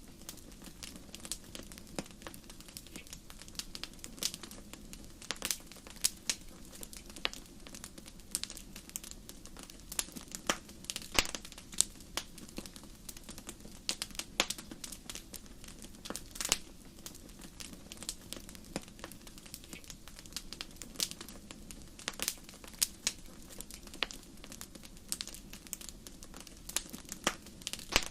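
Wood fire crackling in a fireplace: irregular sharp pops and snaps, several a second, over a steady low hiss of burning.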